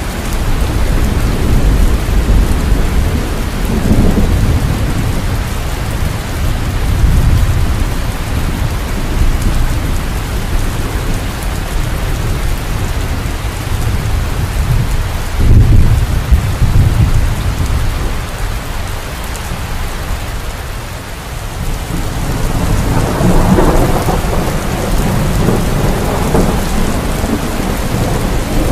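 Steady heavy rain with rolling thunder, the low rumbles swelling and fading several times, strongest about half a minute in and again in the last few seconds.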